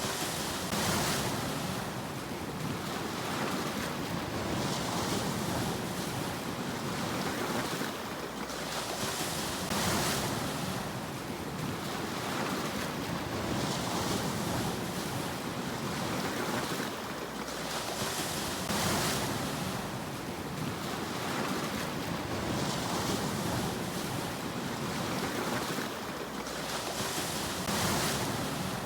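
Sea waves breaking in a steady wash of surf, each wave swelling into a hiss about every four to five seconds.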